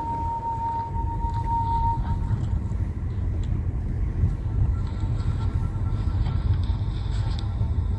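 Steady low rumble of a vehicle in motion, with a steady high tone that fades out about two seconds in.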